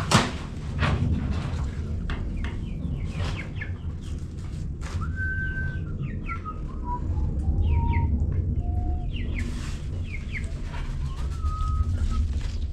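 Birds chirping in short, falling calls over a steady low rumble, with a run of clear whistled notes that step down in pitch through the middle and a few light clicks.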